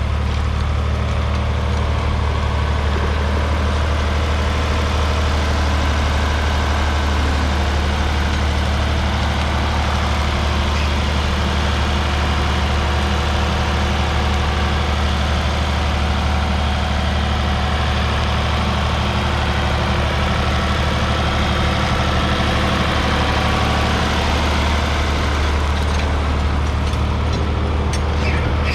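Ford 3000's 2.9-litre three-cylinder diesel engine running at a steady speed, with a deep, even beat that holds without change.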